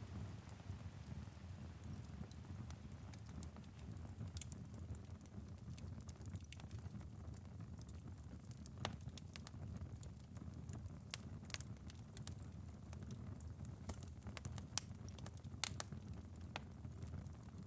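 Wood fire in a fireplace crackling: irregular sharp pops and ticks over a low, steady rumble, with a few louder pops in the second half. Light rain patters against a window.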